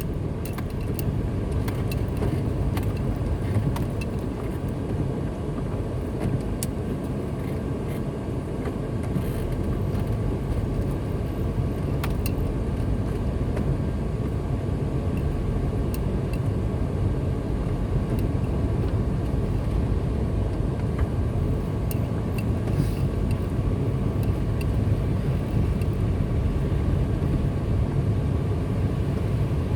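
Car driving along a highway: a steady low rumble of engine and tyres on the road, with a few faint ticks scattered through it.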